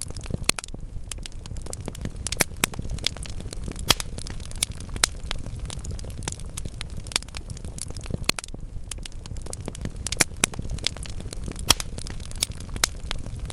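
Wood fire burning in a fireplace: logs crackling with frequent irregular sharp pops over a low steady rumble of the flames.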